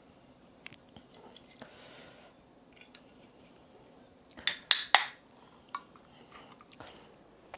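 Eating at a table: scattered small clicks and clinks of tableware, with three loud sharp clacks in quick succession about four and a half seconds in.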